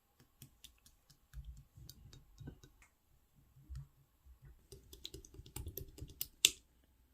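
Slime being squished and pressed by hand, making scattered sticky clicks and small crackling pops with soft low thuds, and one sharper, louder pop near the end.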